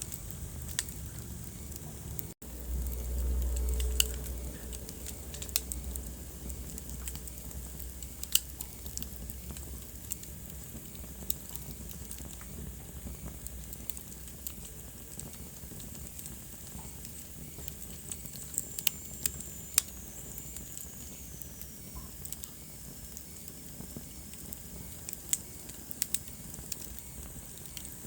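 Wood fire burning in a fireplace, crackling with irregular sharp pops over a steady hiss. There is a brief cut a couple of seconds in, then a low rumble for about two seconds. A faint high whistle falls in pitch about two-thirds of the way through.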